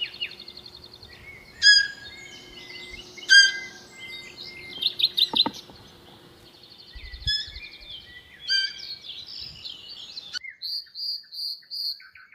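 Several birds chirping and trilling with overlapping calls. Near the end a run of evenly spaced high chirps stands out.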